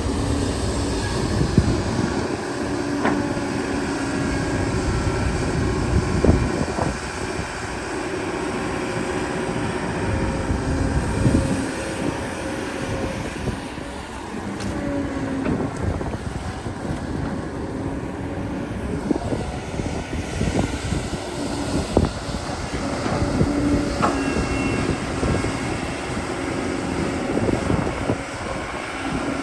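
Excavator's diesel engine running under working load, its hum rising and falling, with scattered sharp clanks and knocks from the machine at work.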